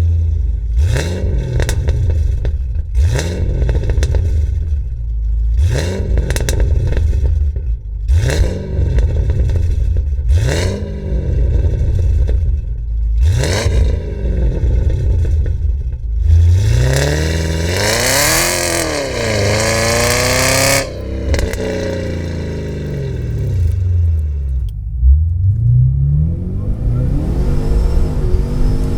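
Pontiac G8 V8 with Pypes long-tube headers and a Pypes SGG61VS axle-back exhaust with Violator mufflers, idling with a deep burble and blipped about six times in quick revs. About halfway through it is taken through a longer, louder rev that rises and falls, then it settles before climbing again near the end.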